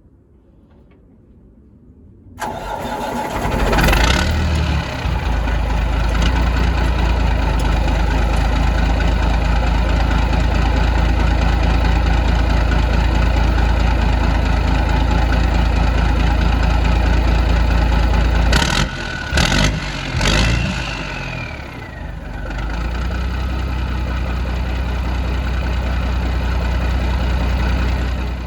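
Straight-piped Caterpillar 3406B inline-six diesel in a Freightliner FLD starting about two seconds in, then running loud and steady. About two-thirds through the running briefly breaks with a few sharp sounds and a falling whine, then settles back to a steady run.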